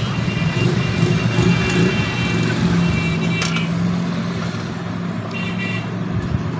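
Steady background road-traffic noise, a low engine rumble and hum with faint high tones coming and going.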